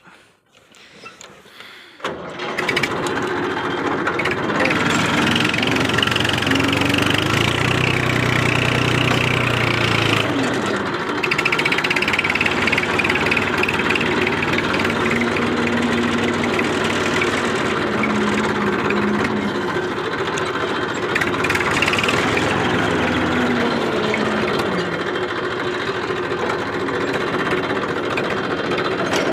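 Tractor's diesel engine comes in suddenly about two seconds in and keeps running, its pitch drifting up and down as the engine speed changes.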